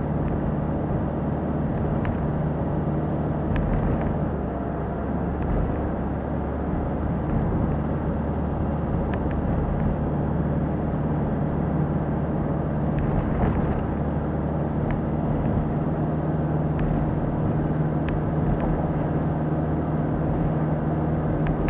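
Car driving, heard from inside the cabin: a steady engine hum with road and tyre noise, and a few faint ticks.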